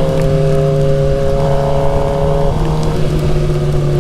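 Suzuki GSX-R750 inline-four engine running at a steady cruise, its note dipping slightly about two and a half seconds in, over a steady rush of wind noise.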